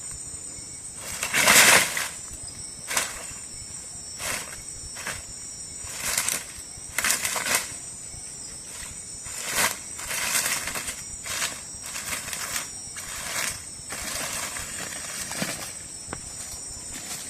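Night insects shrilling in steady high-pitched tones, with irregular rustling and scraping noises every second or so on top, the loudest about a second and a half in.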